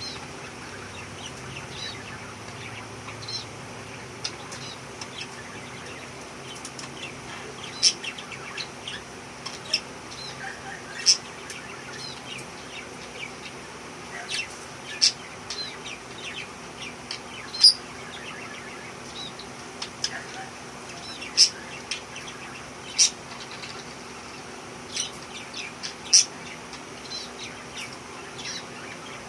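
Budgerigars chattering, with many short, sharp chirps at irregular intervals, over a steady low hum.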